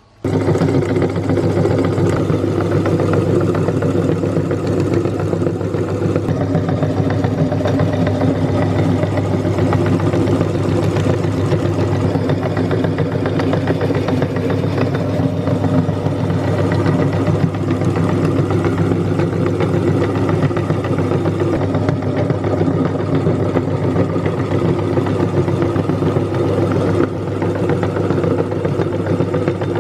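Electric meat grinder switched on and running steadily, a loud, even motor hum.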